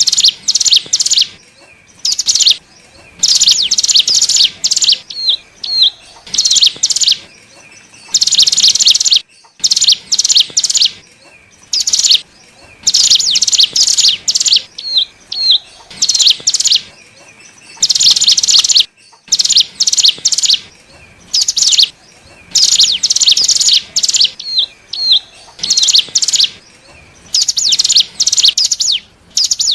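Ciblek gunung, a mountain prinia, singing in repeated loud bursts of rapid, buzzy, trilled notes with short gaps, mixed with a few brief rising whistles. This is a lure recording (suara pikat) played to attract wild birds of the same kind.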